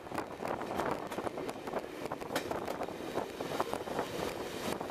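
Diesel-hauled train running along the track: a steady rush of running noise with wind buffeting the microphone and frequent irregular clicks and rattles.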